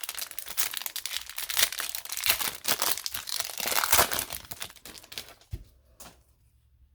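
Foil wrapper of a hockey card pack crinkling and tearing as the pack is opened: dense crackling that dies away after about five seconds. A soft knock comes near the end.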